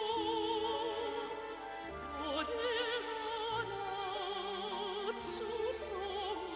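Orchestral music: a slow melody held with a wide vibrato over sustained low chords that change every second or two.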